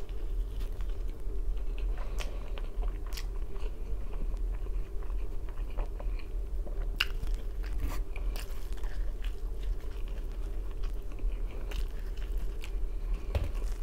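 Close-up biting and chewing of thin-crust pizza, with short crunchy crackles of crust scattered throughout and a bigger bite near the end. A steady low hum runs underneath.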